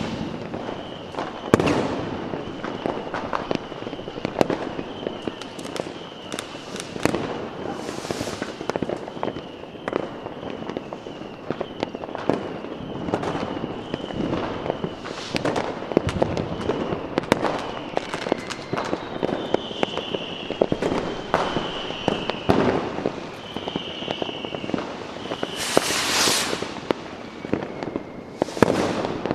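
Fireworks going off: a dense run of bangs and crackles, with loud hissing bursts about eight seconds in and twice near the end, and high whistling tones, some sliding down in pitch, through the middle.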